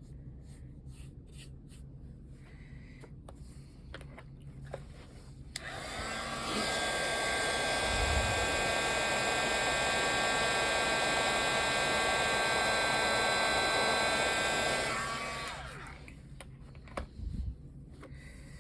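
Hand-held electric hot-air blower switched on about five seconds in, running steadily with a motor whine over its rush of air for about ten seconds, then switched off and spinning down; used to dry paint. Light clicks and taps of handling before and after.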